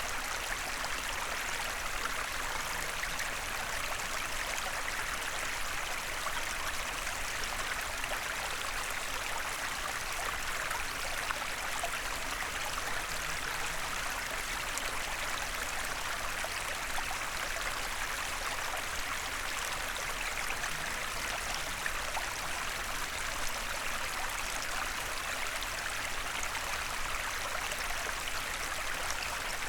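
Small forest stream running over stones: a steady, even rush and babble of flowing water.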